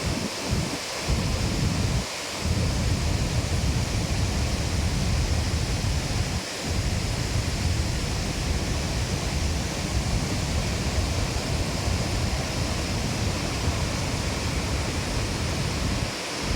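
Waterfall roaring steadily, with wind buffeting the microphone in a low rumble that drops out briefly twice.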